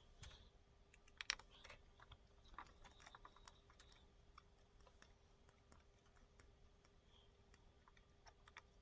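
Faint, scattered clicks and taps of small hand tools and plastic RC car parts being handled during disassembly, densest in the first few seconds, with one sharper click about a second in. A faint steady hum lies under it.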